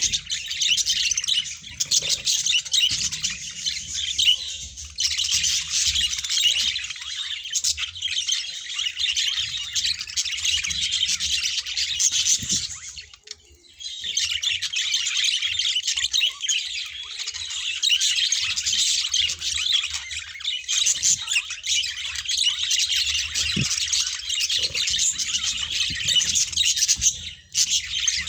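Many budgerigars chattering and chirping at once in a dense, continuous twitter, with a brief lull about halfway through.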